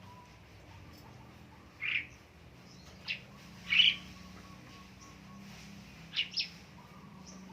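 Sooty-headed bulbul (kutilang) giving short sharp chirps: single calls about 2, 3 and 4 seconds in, then a quick pair a little after 6 seconds.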